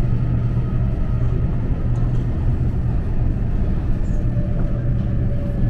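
Passenger train running at speed, heard from inside the carriage: a loud, steady rumble of wheels and running gear with a faint steady whine above it.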